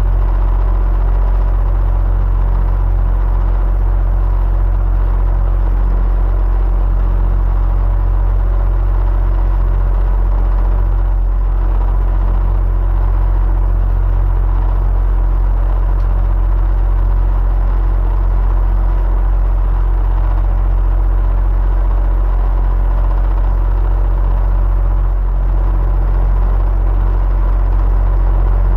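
Electric fan running steadily: an even low rumble and airflow noise with a faint constant hum over it.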